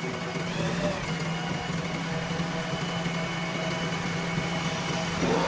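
Diesel engine of a JCB 3DX backhoe loader running steadily, with a constant low hum and faint steady higher tones over it.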